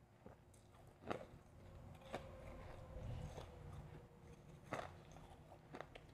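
A person biting and chewing refrozen powdery ice, with crunches about a second in, at two seconds, and twice near the end.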